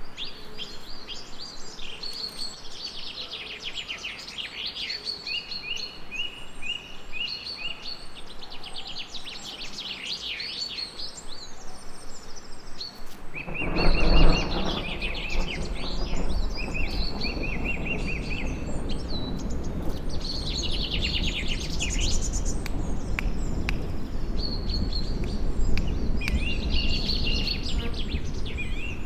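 Several birds singing and chirping, including a quick trill of evenly spaced notes. About halfway through, a deep rumble of thunder rolls in, swells briefly, and then carries on under the birdsong.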